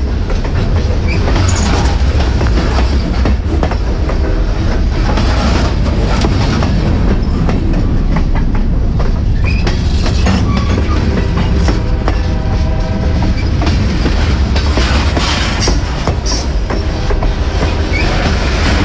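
Freight train cars, covered hoppers and tank cars, rolling past right beside the track: a loud, steady rumble with the wheels clicking over the rail joints. A brief wheel squeal comes about two-thirds of the way through.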